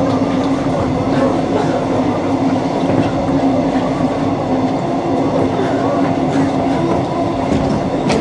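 Train running along the line, a steady rumble with a constant low hum throughout.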